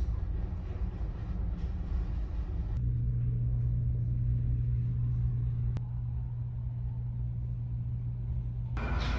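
Low, steady rumble of a car ferry's engines heard on board. About three seconds in it changes abruptly to a steady low hum with little else above it, and near the end it cuts back to a brighter, busier rumble.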